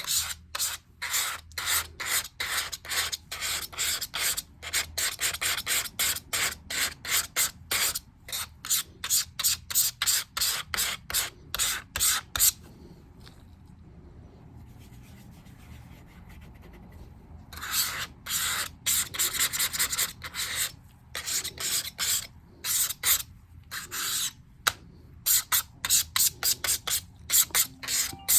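Rapid back-and-forth rubbing strokes, about three a second, scrubbing sticker residue off a MacBook's surface by hand. The strokes pause for about five seconds midway, then start again.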